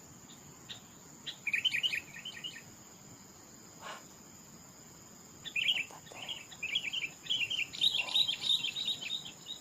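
A small bird calling in quick chattering runs of short chirps, one brief bout early on and a longer one in the second half, over a steady high insect drone.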